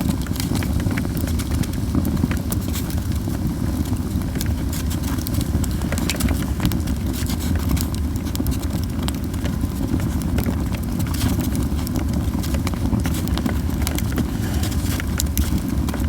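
Yew-wood campfire crackling and popping, with irregular sharp snaps over a steady low rumble of the burning fire.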